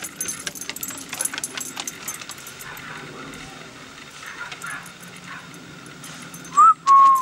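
Metal collar tags jingling and clicking irregularly as a dog moves about. Near the end comes a loud, brief high-pitched tone that rises and then holds steady.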